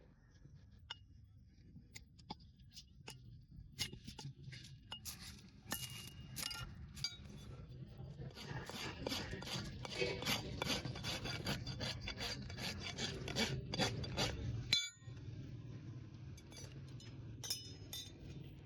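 A horse's hoof being worked with farrier's tools. Scattered sharp scrapes and clicks build into fast, continuous rasping strokes, which cut off abruptly about 15 seconds in. A few quieter scrapes follow.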